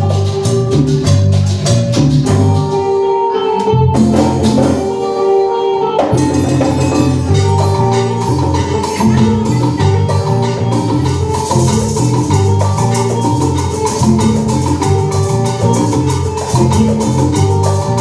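Band playing an instrumental cumbia passage with bass, bright melody lines and percussion. The bass and drums drop out for a few seconds from about two and a half seconds in, and the full band comes back in about six seconds in.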